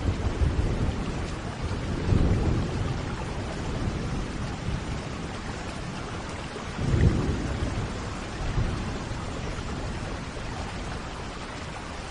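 Steady heavy rain with rumbling thunder that swells about two seconds in and again around the seventh second, then dies away toward the end.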